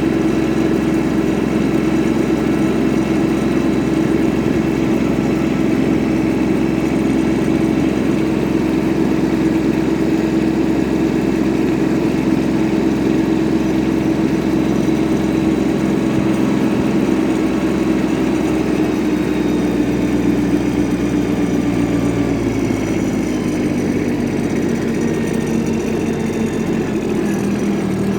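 Yanmar AF15 compact tractor's diesel engine running steadily, its revs dropping about three quarters of the way through and holding lower after.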